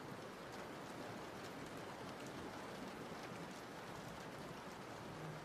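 Steady rain: a soft, even hiss with faint scattered drop ticks, as a rain ambience sound effect.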